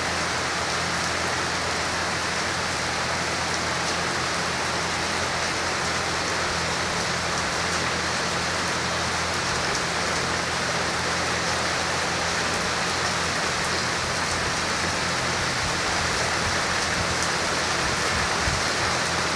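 Steady rain falling on a paved driveway and leafy bushes, an even hiss that holds unchanged throughout.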